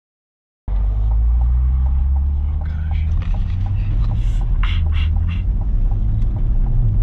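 Chevrolet Corvette C8 Stingray's mid-mounted 6.2-litre LT2 V8 and road noise heard inside the cabin while cruising: a steady low drone that cuts in abruptly under a second in.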